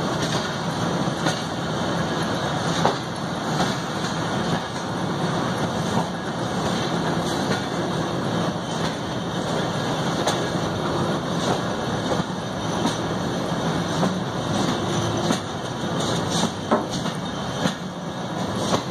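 Passenger train running, heard from inside a coach: a steady rumble and rattle of wheels on the track, with scattered clacks.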